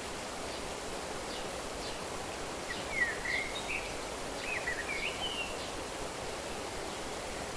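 A bird calling over a steady rushing background of outdoor ambience: a run of short, high, warbling chirps about three seconds in and again around five seconds in.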